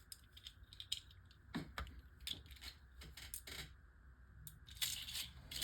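Light, scattered clicks and taps of small hard plastic parts being handled, as Beyblade Micros tops and their launcher are set up, with a short scraping rustle near the end.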